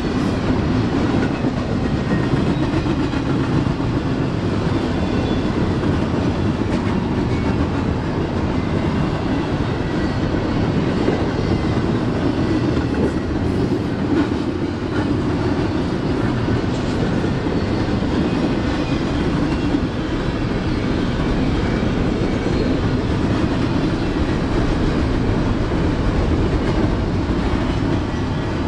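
Freight train cars rolling steadily past on the rails, a loud, even rumble of wheels on track.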